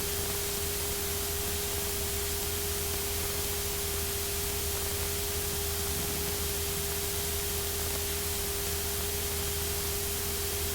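Steady hiss and static from an aircraft headset intercom audio feed, with a constant whine and a low hum underneath, unchanging throughout.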